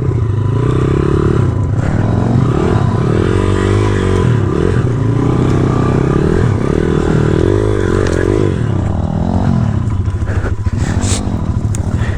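Small single-cylinder four-stroke pit bike engine revving up and down over and over as the rider works the throttle across a rough side hill at low speed. A few sharp knocks near the end.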